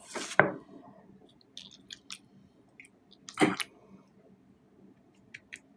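Someone eating from a plate with a fork: soft chewing with scattered small clicks of the fork against the plate. A louder sound comes at the start and another about three and a half seconds in.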